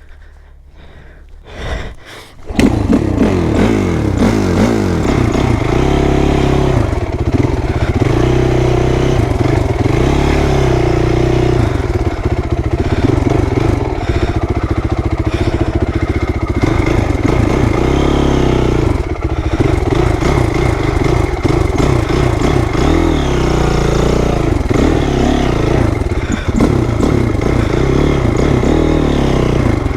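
Honda CRF450R's single-cylinder four-stroke engine revving up and down as the dirt bike rides a woodland trail, starting loud about two and a half seconds in after a brief quiet spell.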